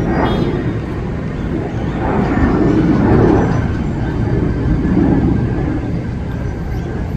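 Jet engines of a departing Boeing 737 airliner: a steady, loud rumble as it climbs away, swelling a little twice.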